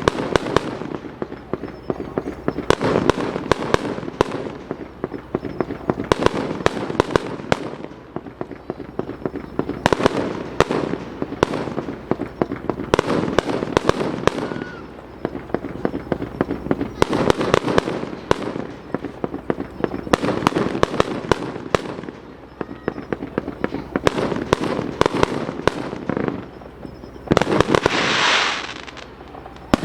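Aerial fireworks bursting in rapid volleys of sharp bangs and crackles, cluster after cluster. A longer rushing hiss comes near the end.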